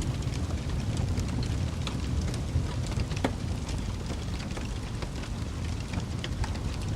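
Wood fire burning, with a steady low rumble of the flames and frequent irregular sharp crackles and pops.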